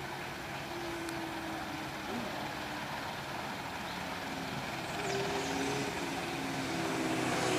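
Steady engine noise with a hiss, and short steady engine tones that shift in pitch now and then.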